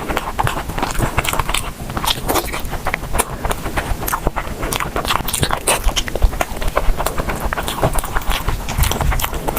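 Close-miked eating sounds: someone chewing and biting food, with a dense run of wet clicks and crunches.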